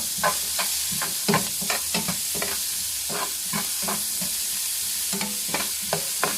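Onion and garlic frying in margarine and oil in a pan, with a steady sizzle. A utensil stirring the pan gives irregular clicks and scrapes, about two a second.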